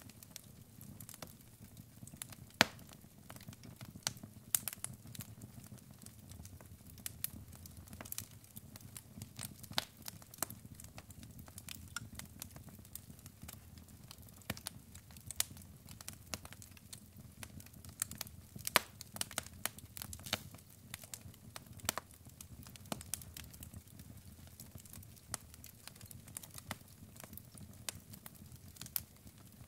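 Wood fire of burning logs crackling, with irregular sharp pops, a few of them loud, over a low, soft rumble of the flames.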